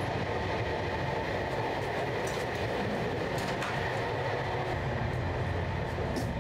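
Overnight passenger train under way, heard from inside the carriage: the steady running noise of the moving car, with a few faint clicks.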